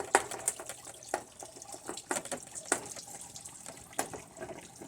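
Irregular light clicks and knocks, a dozen or so at uneven spacing, of hard plastic parts and tools being handled.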